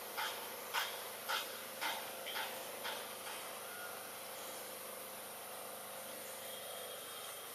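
A run of short, sharp animal calls, about two a second, that stop about three seconds in, over a steady hiss.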